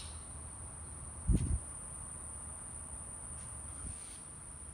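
Crickets trilling in a steady, unbroken high-pitched chorus, with one brief low thump about a second and a half in.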